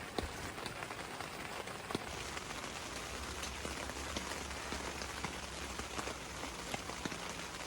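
Rain falling: a steady hiss of rain with many scattered single drops ticking.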